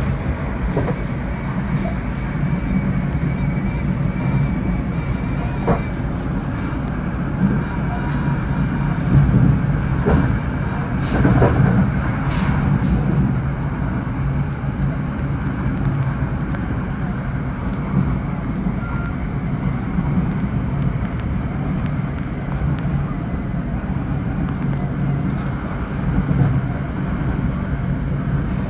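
Commuter train of Comet V coaches running along the track, heard from aboard: a steady low rumble with scattered sharp clicks and knocks from the wheels and rails.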